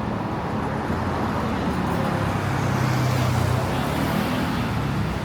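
City street traffic: a steady hum of engines and tyres. A nearby motor vehicle's low engine drone swells a little around the middle, then eases off.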